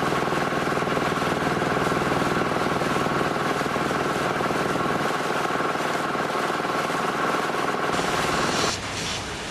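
Heavy construction machinery running steadily, an engine drone with a fast rattle through it, which drops and changes near the end.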